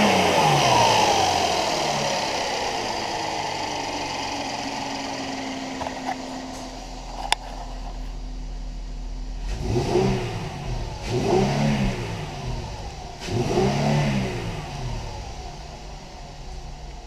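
2014 Mercedes-Benz E-Class 3.5L V6 engine running. Its revs fall back to a steady idle, and in the second half it is blipped three times, each rev rising and dropping back to idle. A single sharp click comes midway.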